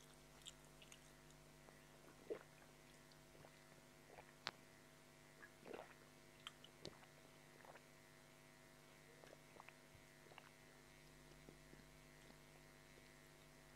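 Near silence over a steady low electrical hum, broken by scattered faint mouth clicks and smacks of chewing French fries, the sharpest about four and a half and seven seconds in.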